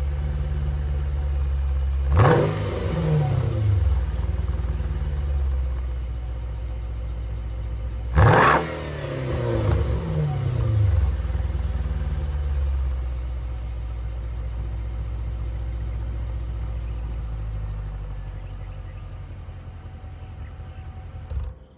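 Exhaust of a 2011 Mercedes E550's 5.5-litre V8, fitted with an x-pipe in place of the mid-resonator and three-chamber Magnaflow mufflers, idling with two quick revs about 2 and 8 seconds in, each falling back to idle. The idle grows quieter toward the end and cuts off just before the end.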